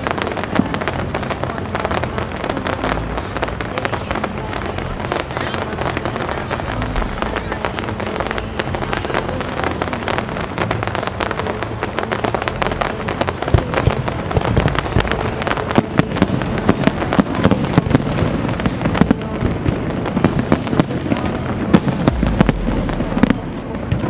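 Aerial fireworks going off in quick succession, a dense run of bangs and crackles that grows louder and busier about halfway through, with music playing underneath.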